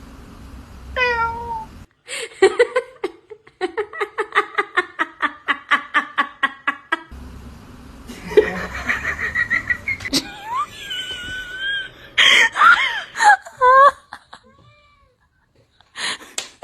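A cat meowing and yowling in several separate calls, some sliding down in pitch, with a person laughing in a long run of quick bursts.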